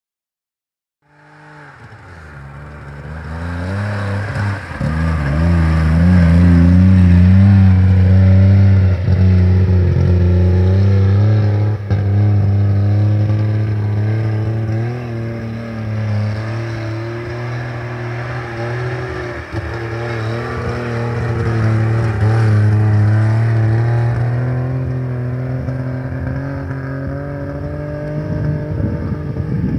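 DKW Munga's three-cylinder two-stroke engine running under load, its pitch rising and falling gently with the throttle. It swells in over the first few seconds.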